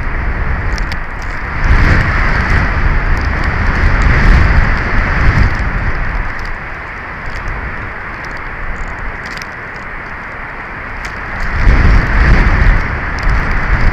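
Strong wind buffeting the nest camera's microphone: a steady rushing hiss with a heavy low rumble that surges about two seconds in and again near the end, with scattered faint ticks.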